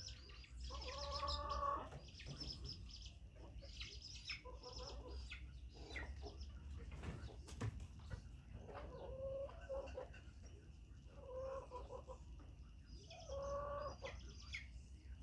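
Chickens clucking and calling, short pitched calls every few seconds.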